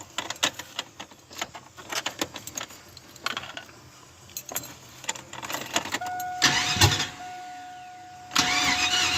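Chevrolet S-10 pickup being started: light clicks and rattles, then a steady dashboard warning tone comes on about six seconds in, and the starter cranks the engine in two short bursts.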